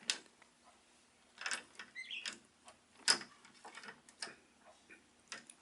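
Faint, scattered light clicks and small splashes from a budgie bathing in shallow water, the sharpest click about three seconds in.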